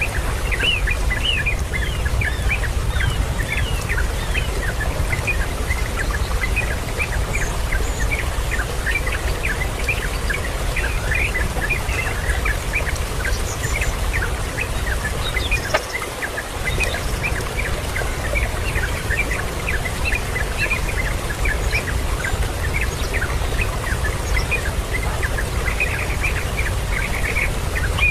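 Birds chirping: a continuous stream of short, high chirps in quick succession, over a steady low rumble.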